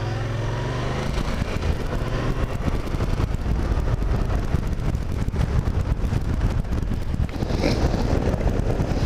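A vehicle engine running on the move at road speed, with heavy wind buffeting the microphone.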